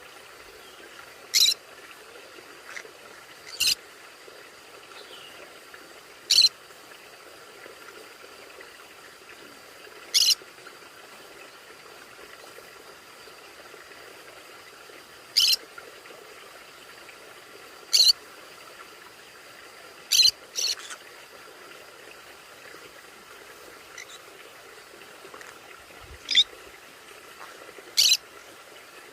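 Conure giving about ten short, sharp, high calls at irregular intervals, two in quick succession about two-thirds of the way through.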